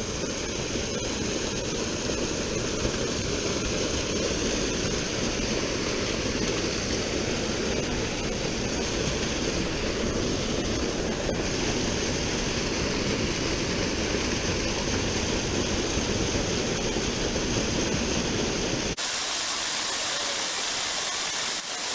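Running water of a small forest river, a steady rushing noise with a heavy low rumble. About 19 s in the sound changes abruptly to a brighter, hissier rush with the rumble gone.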